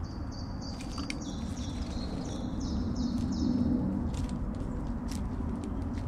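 A bird singing a quick run of short, high repeated notes, about three a second, that stops about four seconds in, over a low outdoor rumble.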